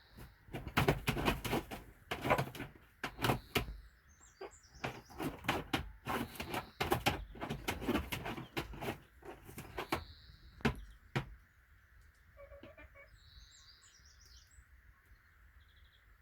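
A run of knocks, scrapes and clatter from objects being handled, with small birds chirping now and then; about eleven seconds in the handling stops, and a short bird call follows.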